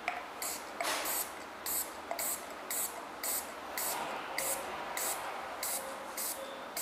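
Aerosol perfume can sprayed into a glass jar in a quick run of short hissing puffs, about two a second, charging the jar with fuel vapour.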